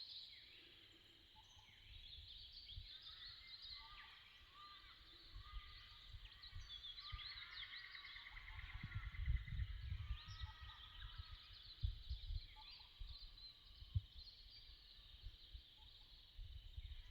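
Several birds calling and chirping, with a fast trill a little before halfway through, over low gusts of wind rumbling on the microphone.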